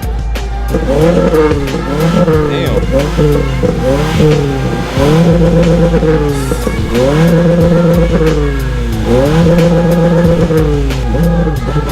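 Honda Accord's K24 four-cylinder engine being revved again and again: each rev climbs, is held high for a second or two, then drops back, with the longer holds in the second half. It is being run hard to burn off a Seafoam treatment and blow out carbon deposits.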